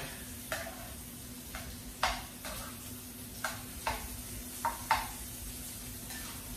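Beef bologna slices frying in a cast-iron skillet with a steady sizzle, while metal tongs clack against the pan about eight times as the slices are moved around.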